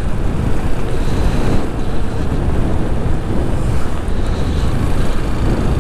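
Wind buffeting the microphone of a camera on a moving motorcycle: a loud, steady rush heavy in the low end, with road noise mixed in.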